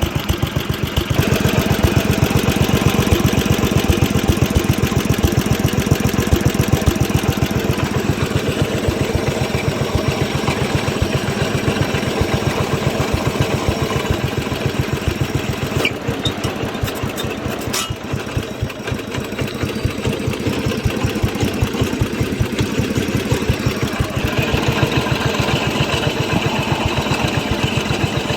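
1967 Simplicity 2210 Landlord garden tractor's engine running steadily while mowing, with a fast even beat that gets louder about a second in. Two brief sharp ticks come about two-thirds of the way through.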